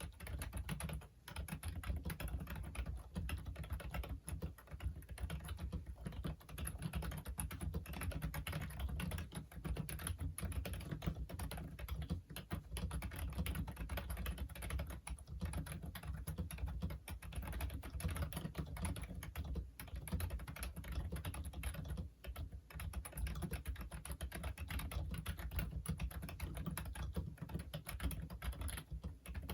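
Continuous fast typing on a Logitech Wave Keys wireless ergonomic keyboard, a dense run of key clicks with a couple of brief pauses.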